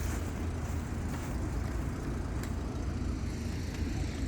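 Steady low rumble of vehicle noise, with a single faint tick about two and a half seconds in.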